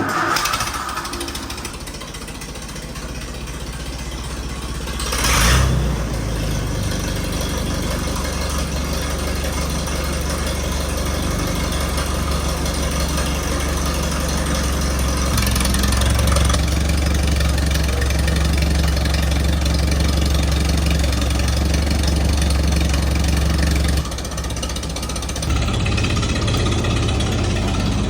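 A 1955 Allis Chalmers WD45 tractor engine running steadily, with a brief louder burst about five seconds in and a short drop in level near the end.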